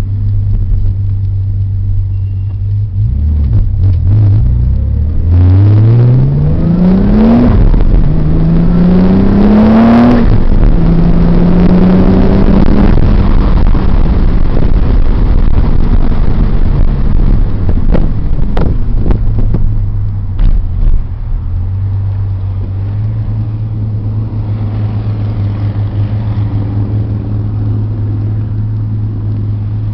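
Nissan 300ZX Twin Turbo's 3.0-litre twin-turbo V6 doing a low-boost acceleration pull. From about five seconds in, the engine note climbs three times, dropping at each gear change, then settles back to a steady drone as the car cruises.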